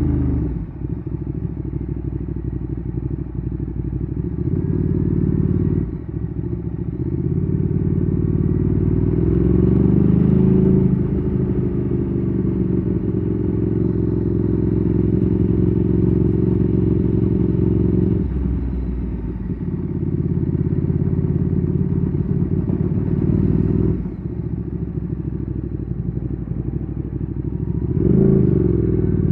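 Ducati Streetfighter 848's L-twin engine, breathing through a Termignoni exhaust, heard while riding. The engine drops off about a second in, pulls up again with a rising note to a peak around ten seconds, then eases off and picks up a few more times.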